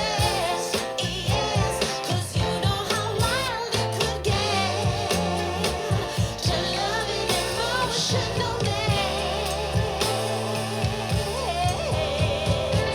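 Pop song with sung vocals over a steady beat and bass, playing from a JBL Charge 6 portable Bluetooth speaker and picked up in the room by a USB microphone.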